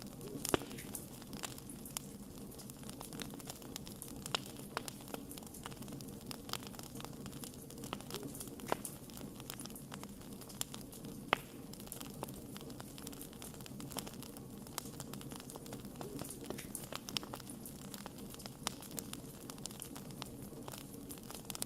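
Wood fire crackling: irregular sharp pops and snaps over a steady low hiss of burning wood, with a few louder pops scattered through.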